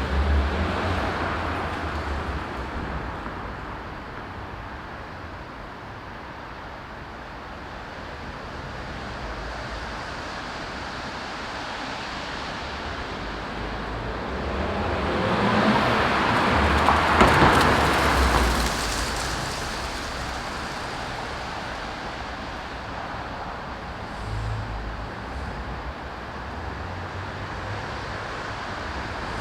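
Ford Fiesta Zetec S with its stock exhaust driving past: it pulls away loud and fades, then comes back and passes close, swelling to its loudest a little past halfway and fading again.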